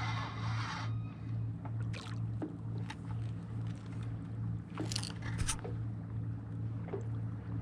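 Kayak on the water: small splashes and knocks against the hull come at irregular times, the strongest about five seconds in, over a steady low hum. Background music fades out about a second in.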